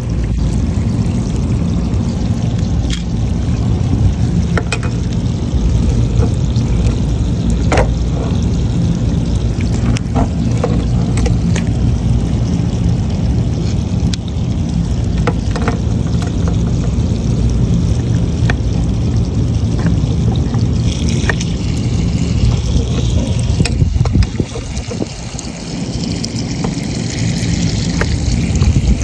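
Running water pouring and trickling over a steady low rumble, with scattered small clicks and knocks.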